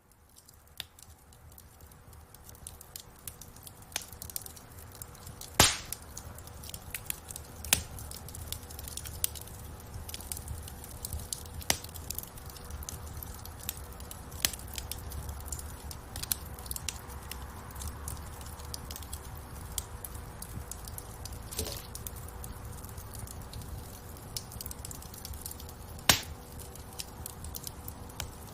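Wood fire in a fireplace crackling, with scattered sharp pops over a low rumble of the flames. The sound fades up over the first few seconds. A few pops stand out louder, one near the end.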